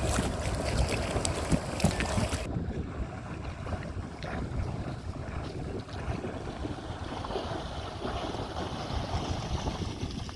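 Wind on the microphone and water washing around a kayak on a river, loud and crackly at first. About two and a half seconds in, the high crackle cuts off abruptly, leaving a quieter, low water wash.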